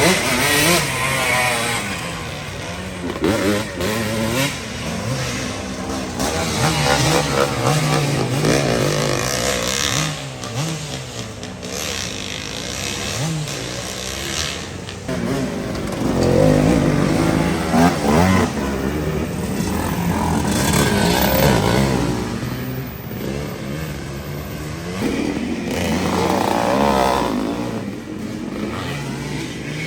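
Several motorcycle engines running and revving, their pitch rising and falling again and again as they pass.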